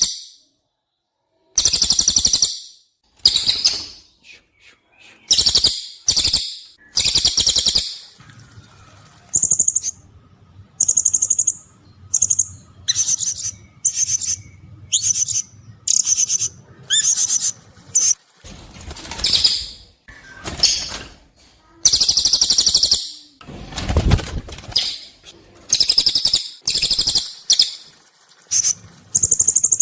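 Recorded calls of cililin and blue-crowned hanging parrot, a bird-song training track: a rapid series of short, shrill, high chirps and thin whistles with short gaps between them.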